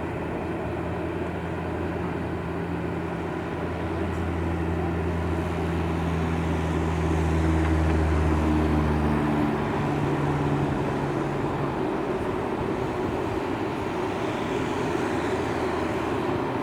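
Jet airliner engine noise, a steady rushing that swells to its loudest about eight seconds in and then eases off. A low hum beneath it stops about nine seconds in.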